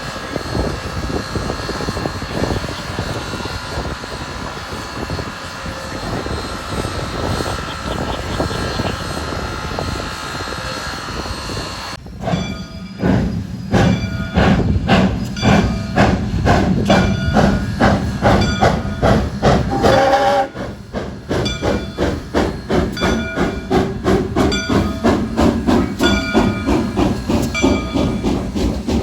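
Train passing close by: a steady rumble and hiss that changes abruptly, about twelve seconds in, to a loud, regular beat of roughly two strokes a second.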